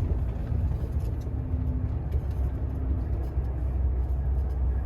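Volvo semi-truck's diesel engine running as the truck rolls slowly, heard inside the cab as a steady low rumble.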